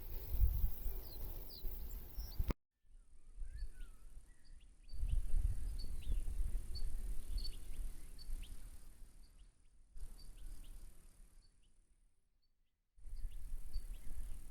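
Small birds chirping outdoors: short high chips repeating every half second or so, with a few lower whistled notes, over a low rumble of wind on the microphone. The sound cuts off and restarts abruptly several times.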